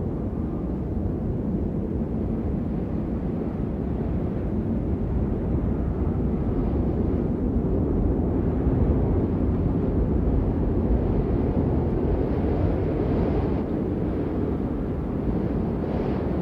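Steady rain, a dense, muffled rumble with little high hiss, running without a break.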